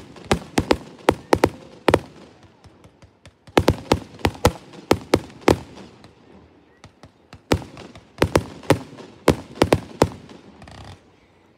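Aerial fireworks bursting: three volleys of sharp bangs and pops, each a quick run of reports.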